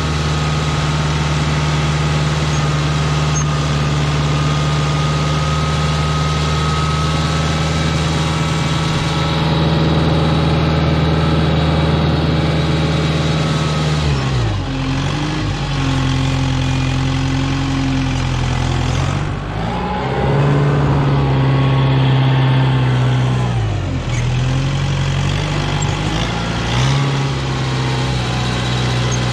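Kubota tractor's diesel engine running steadily while plowing snow, its engine speed dipping briefly and picking back up four times, about every five seconds.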